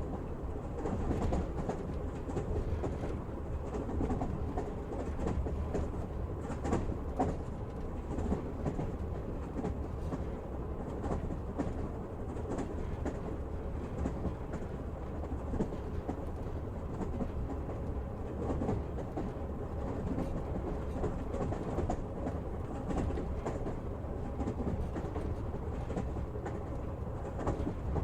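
Train riding along the rails: a steady rumble of the wheels with scattered clacks and clicks.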